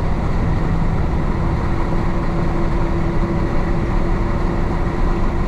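1966 Isuzu BXD30 bonnet bus's DA640 six-cylinder diesel engine running steadily with the bus under way, a dense low drone. A higher steady hum joins about a second and a half in.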